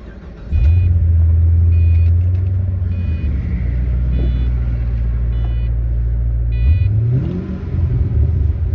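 2006 Pontiac GTO's 6.0-litre LS2 V8 with cat-back exhaust firing up about half a second in and settling into a steady, deep idle, with one throttle blip near the end that rises and falls in pitch. A warning chime rings about once a second over the engine.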